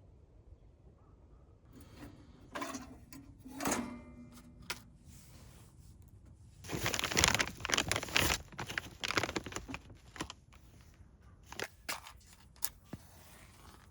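Crinkling and crunching handling noise as a wood stove fire is laid with paper and kindling. A short ringing metal clank comes about four seconds in, and a louder run of crunching follows a few seconds later.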